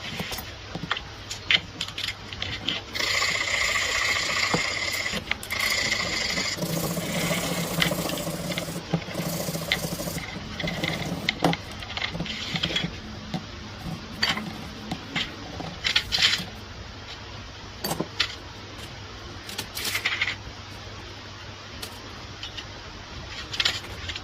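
Metal gun parts being handled by hand: scattered clinks and knocks, with a few seconds of steady scraping and rubbing on metal about three to nine seconds in.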